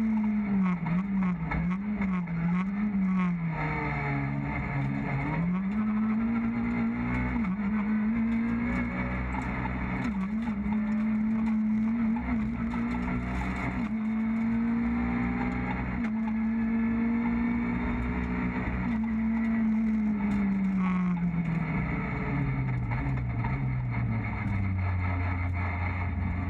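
Renault Clio R3 rally car's 2-litre four-cylinder engine heard from inside the cabin, running hard on a stage: the pitch dips and climbs with rapid gear changes, holds high revs through the middle, then falls steadily in the last few seconds to a low, even note as the car slows.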